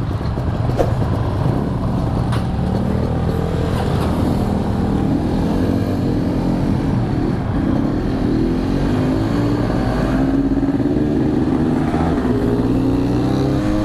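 Yamaha RX-King's two-stroke single-cylinder engine running under way, its pitch climbing steadily over the second half as the bike accelerates.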